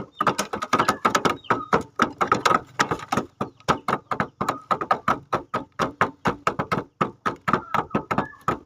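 Rapid, uneven tapping, about four to six sharp taps a second, running on without a break.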